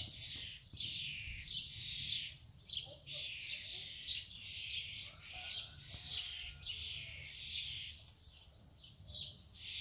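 Birds chirping in a steady run of high, repeated bursts, about one to two a second.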